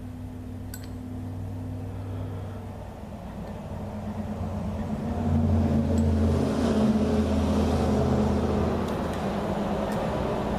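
A motor vehicle engine runs with a low, steady hum that swells about five seconds in and then slowly eases off. There is a light click about a second in.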